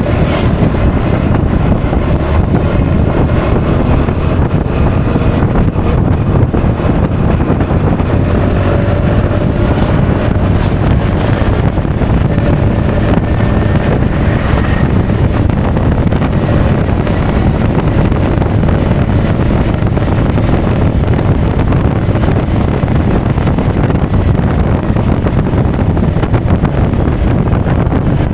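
Steady, loud wind rush on an action camera's microphone while riding a Honda Forza 350 scooter, with the scooter's engine and road noise underneath.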